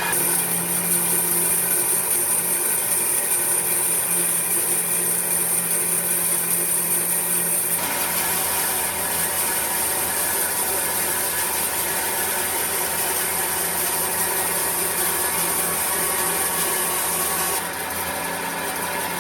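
A power tool working wood, running steadily without a break; its sound shifts about eight seconds in and eases slightly near the end.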